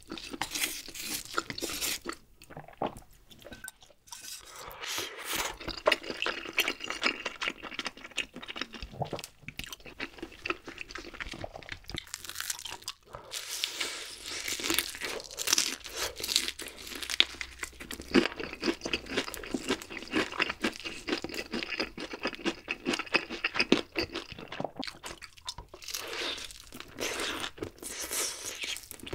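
Close-miked eating sounds: honey-glazed Kyochon Honey Combo fried chicken crunching and being chewed in an irregular run of crisp bites, quieter for a few seconds near the start.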